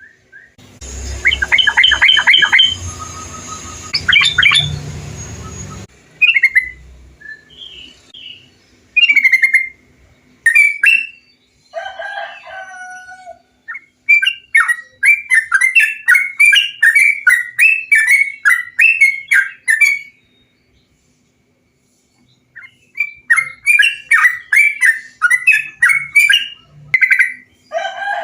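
Yellow-vented bulbuls (trucukan) chirping and singing in runs of quick, bubbly notes, with several recordings joined one after another. The first few seconds carry a background hum, and there is a short silent break in the middle.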